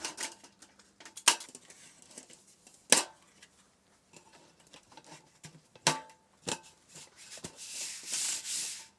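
Scattered knocks and clicks of objects being handled, a few sharper ones spread over several seconds, then a rushing hiss about a second long near the end.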